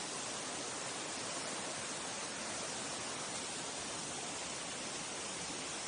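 Mountain stream rushing steadily, an even hiss of running water.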